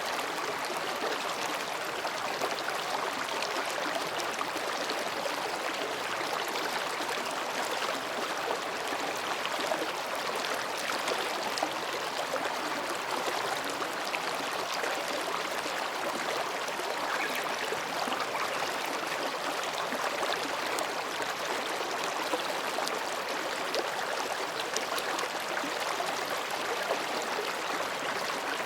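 Mountain stream flowing between rocks, a steady babbling and gurgling of water.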